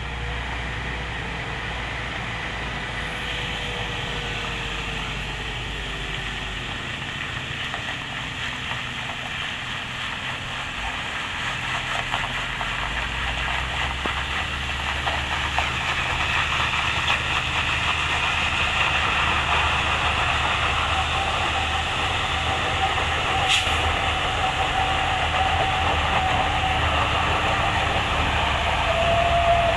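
Hino container truck's diesel engine running hard on an uphill climb, growing louder about halfway through, with a thin steady whine in the second half.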